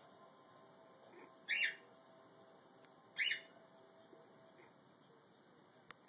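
Pet bird squawking twice, short high calls about a second and a half apart.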